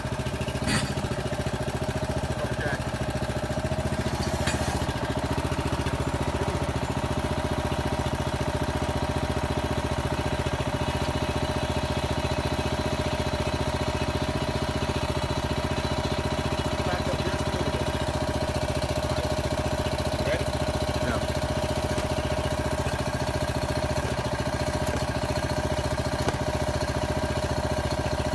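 Small engine running steadily, powering the hydraulic jacking machine that lifts a settled brick wall on foundation piers. There are a couple of brief clicks in the first few seconds.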